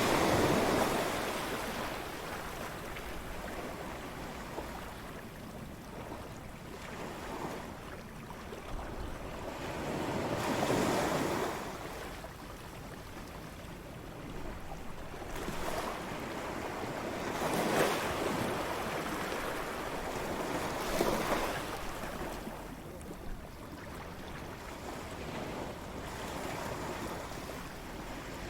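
Ocean waves breaking on a beach, each swell rising and washing out every few seconds over a steady hiss of surf. A light wind runs underneath.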